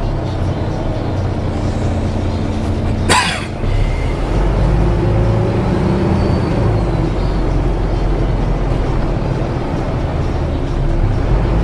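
Volvo B7TL double-decker bus running, heard from on board: a steady diesel engine and drivetrain rumble that drops briefly and then picks up again. About three seconds in there is a short, sharp burst of noise.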